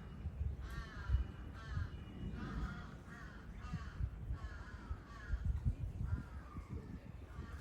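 Laughing kookaburra giving its laughing call: a long run of quick, repeated, arched chuckling notes. Low rumbling noise runs underneath.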